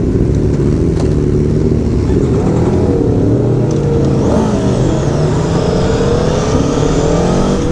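Aprilia Tuono Factory's V4 engine running loudly, its pitch sliding up and down a few times in the middle.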